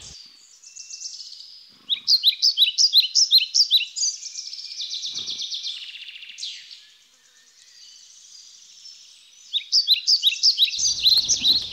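Birdsong: quick, high chirping notes repeated in rapid runs. They are loudest about two seconds in and again near the end, with a quieter lull in the middle.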